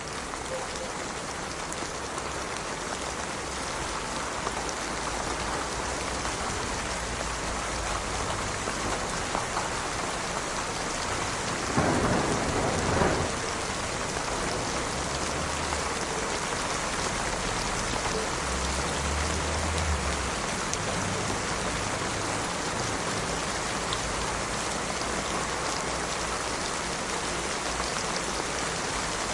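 Steady rain falling. About twelve seconds in there is a louder burst lasting about a second, with low rumbles over the following seconds.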